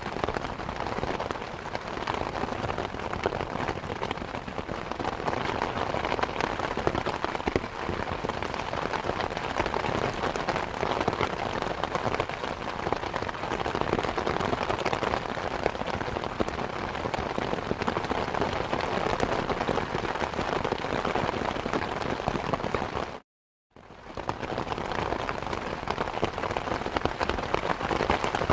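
Steady rain falling, a dense even hiss thick with individual drop hits. A little past two-thirds of the way through, the sound cuts out to silence for under half a second, then fades back in.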